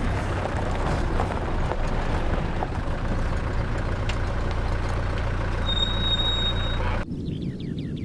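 Four-wheel-drive vehicle's engine running steadily in low-range gear while moving slowly off-road, with scattered knocks and rattles, and a brief high steady tone near the end. About seven seconds in, the engine sound cuts off abruptly to faint birdsong.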